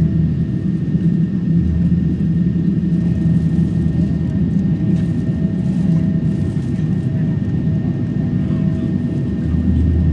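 Steady low rumble inside the cabin of a Boeing 777 standing before taxi, with faint steady hums over it.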